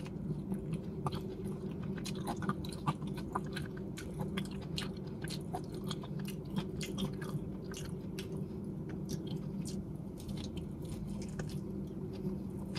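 Chewing and biting of salt-cured boiled chicken: many small, irregular wet clicks and crunches, over a steady low hum.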